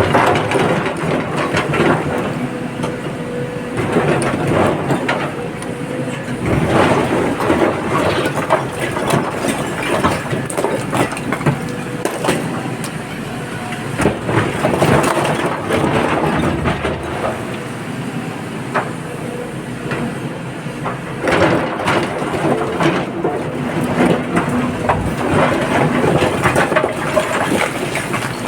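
An excavator's engine running under load, with bouts of crunching and clattering as rock and earth are dug and dropped into a truck body. The bouts last a few seconds each, with the engine's steady note between them.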